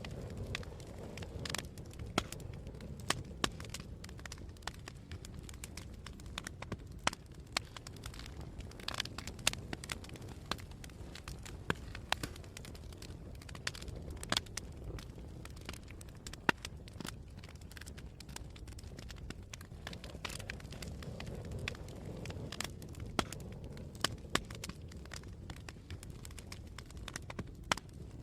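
Campfire burning with a steady low rumble and frequent sharp crackles and pops from the burning wood, a few louder pops standing out.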